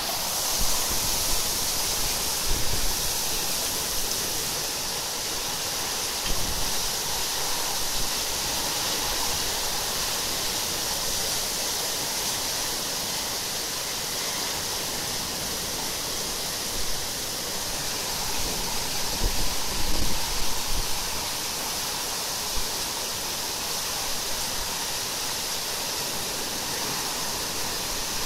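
Torrential rain pouring down in a steady, heavy hiss, with a few brief low rumbles, like gusts on the microphone, here and there.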